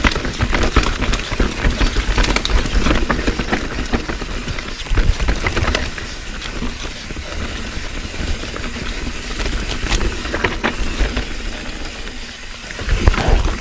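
Evil Following MB 29er mountain bike ridden over a dirt trail: a steady rush of wind on the microphone and tyre noise, with frequent clatters and knocks from the bike over bumps.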